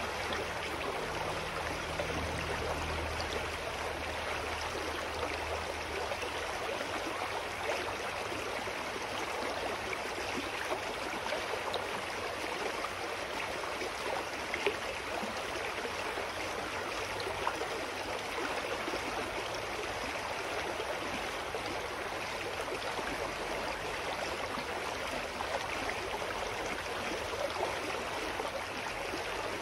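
Clear mountain stream flowing steadily, an even rush of water without a break.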